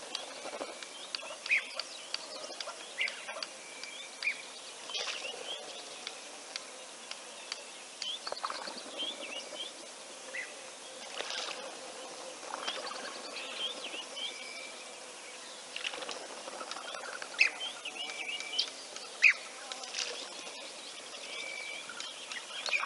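Wild birds calling: many short chirps and whistles scattered throughout, overlapping, with a couple of louder sharp calls near the end.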